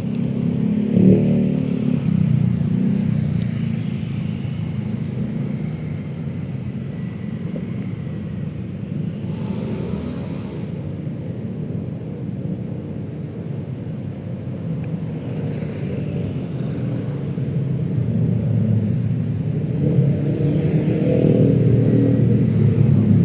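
City road traffic passing on a busy street: a continuous low rumble of vehicles, swelling as one goes by about a second in and again as more pass near the end, with a short hiss partway through.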